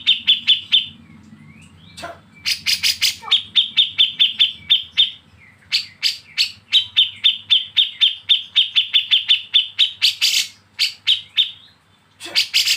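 Bulbul giving its harsh, rapid chattering 'besetan' call: runs of sharp notes at about eight a second, repeated in bursts of a few seconds with brief pauses between.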